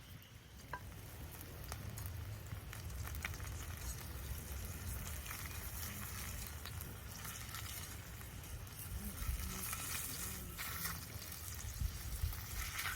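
Food frying in a pan: a steady sizzle with scattered pops and crackles.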